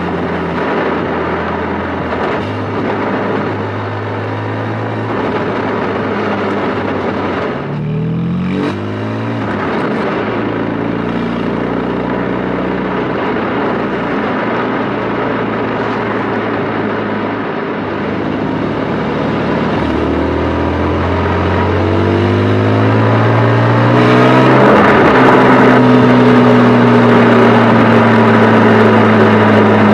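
Porsche 718 Spyder's 4.0-litre flat-six engine running during its break-in period. Its note shifts briefly about 8 seconds in, rises steadily from about 20 seconds in, then holds a higher, slowly easing note.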